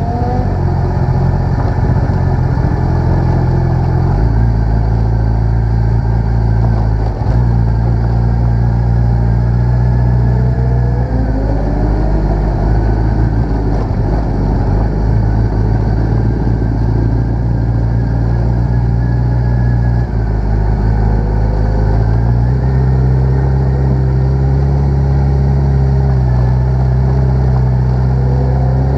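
Motorcycle engine running under way, its note holding steady for long stretches and shifting a few times as the throttle changes. The engine has a misfire.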